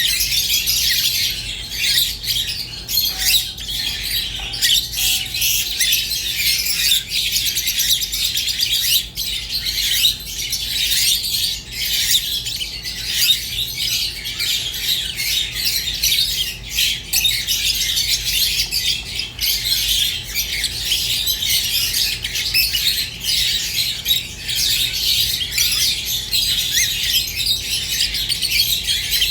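Budgerigars warbling and chattering without a break, a dense stream of fast chirps, squawks and twittering.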